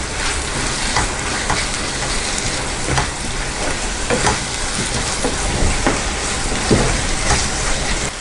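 Ash gourd halwa sizzling and bubbling in ghee in a nonstick pan, stirred with a wooden spatula that scrapes the pan about once a second. This is the final stage of cooking, as the halwa thickens and comes together.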